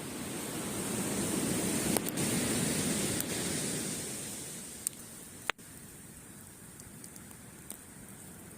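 A sea wave breaking and washing up the beach, swelling over the first few seconds and then fading away, with a few sharp pops from a wood campfire.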